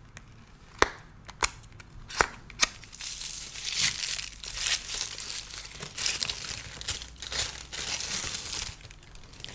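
A few sharp clicks or taps, then about six seconds of steady crinkling and rustling as a small piece of makeup packaging is handled and opened.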